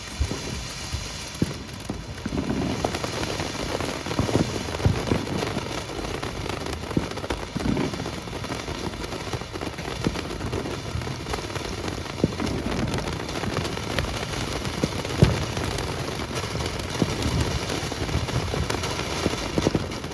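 Ground firework fountain burning: a continuous hiss thick with crackling, with scattered louder pops, the loudest about fifteen seconds in.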